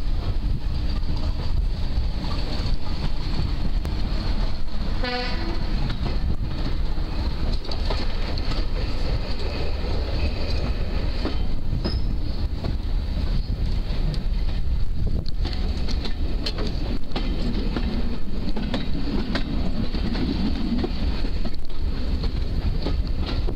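Hampshire diesel-electric multiple unit under way, heard from an open window: a steady low rumble of the train running on the rails. A short falling tone sounds about five seconds in.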